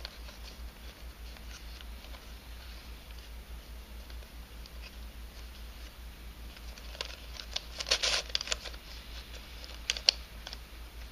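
3D-printed nylon twisty-puzzle pieces clicking and scraping as the puzzle's faces are turned, with a quick run of clicks about seven to eight seconds in and a sharp click about ten seconds in.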